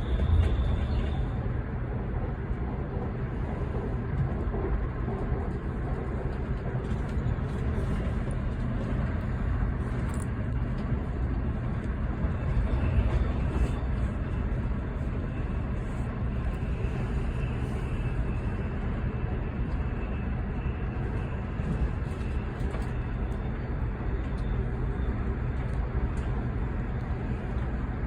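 Airport Railroad (AREX) train running steadily at speed, heard from on board as a continuous low rumble and rolling noise. A faint high whine comes in for a few seconds around the middle.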